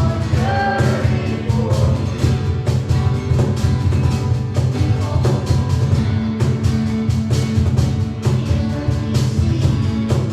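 Live worship band playing a song, with a steady drum beat over a full band, and a sung line trailing off near the start.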